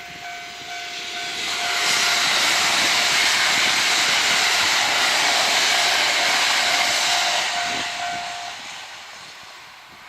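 Two coupled Kintetsu 12200-series electric trains pass over a level crossing at speed. Their rushing noise builds about two seconds in, holds loud and then fades. The crossing's alarm bell rings in a repeating two-tone pattern under it and stops about eight and a half seconds in.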